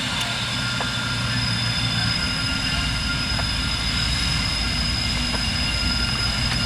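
Freight train's diesel locomotives running, a steady engine drone with thin, steady high tones above it.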